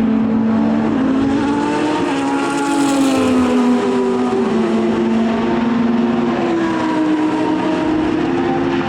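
Racing car engine running hard at high revs, its pitch climbing and then falling as it passes, loudest about three seconds in.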